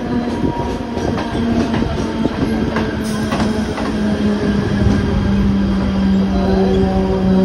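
Mumbai suburban electric local train running past close by, with wheel clatter and a few sharp clicks over the rail joints. A steady hum grows louder in the second half.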